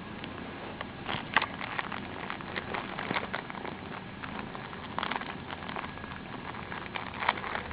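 Irregular rustling and crackling with scattered light taps and clicks, over a steady hiss.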